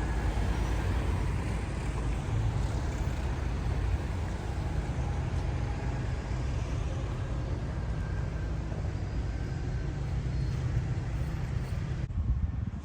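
Steady city street traffic: cars going by with a low rumble, which drops away sharply near the end.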